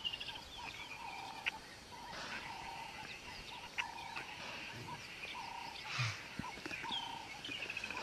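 Wild birds calling: a short call note repeated every second or so, with a descending whistled trill near the start and again near the end.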